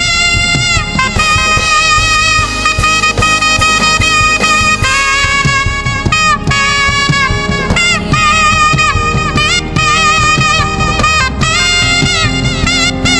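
Saxophone playing a melodic lead of held notes with bends and vibrato, backed by keyboard and drums in a live gospel band.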